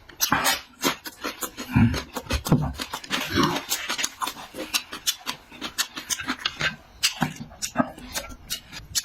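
A person eating close to the microphone: wet chewing and mouth smacking, a quick irregular run of clicks, with a few louder, lower mouthfuls about two and three and a half seconds in.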